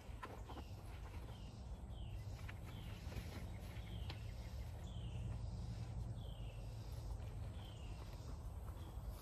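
Outdoor woodland ambience with a bird calling over and over, a short falling note repeated a little more often than once a second, above a steady low rumble. A few light clicks come in the first second.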